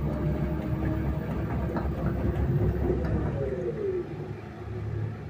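A vehicle engine running with a knocking, rattling noise whose cause is unknown, with irregular clicks over a low rumble. A tone slides down shortly after the middle, and the sound eases off a little after that.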